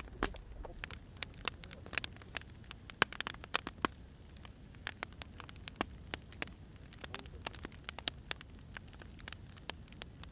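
Wood fire crackling: irregular sharp pops and snaps of burning firewood over a low hiss, thickest in the first few seconds.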